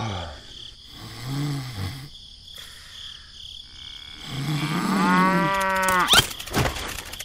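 Cow mooing: a short low moo about a second in, then a longer, louder moo from about four seconds in that sweeps sharply up in pitch at its end, followed by a sharp click.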